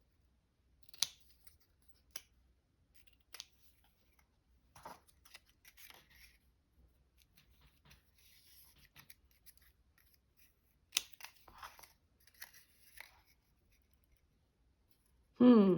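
Scissors cutting paper: a scattering of short snips and paper rustles with pauses between them, two sharper snips standing out about a second in and again near eleven seconds.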